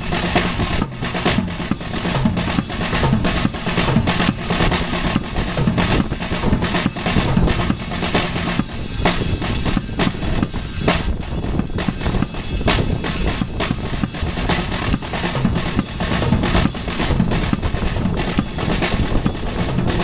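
Drum kit solo: a dense, unbroken stream of strikes on the drums and cymbals.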